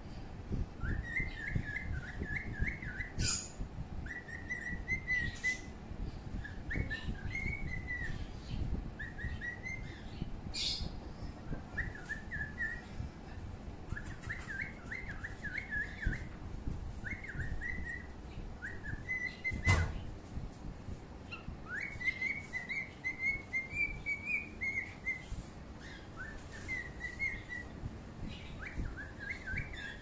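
Birds chirping in short, repeated warbling phrases over and over, with a sharp click about two-thirds of the way through.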